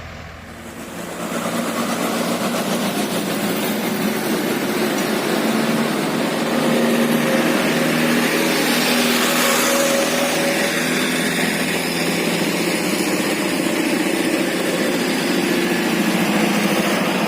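A motor vehicle's engine running loud and close for the whole stretch, its pitch holding steady with slight wavering.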